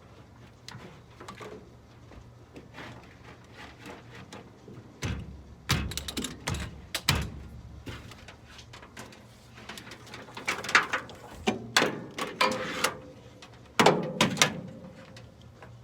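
Scattered clicks, knocks and clanks of hand work in the shop: a cluster about five seconds in and a louder run from about ten seconds on.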